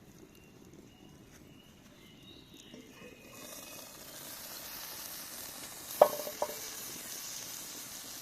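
Onion soup under a baked Parmesan topping sizzling and bubbling in a hot cast-iron Dutch oven, with the hiss growing louder after about three seconds. Two sharp metal clinks about six seconds in.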